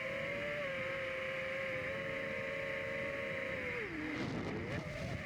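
FPV racing drone's electric motors and propellers whining at a steady high pitch. Near the end the pitch drops sharply as the throttle is cut, with a rush of noise.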